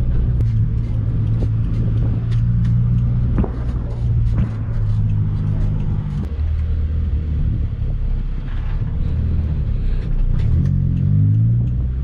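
Toyota Corolla T-Sport race car's four-cylinder engine running at low revs in slow traffic, heard from inside the car. Revs rise briefly about ten and a half seconds in.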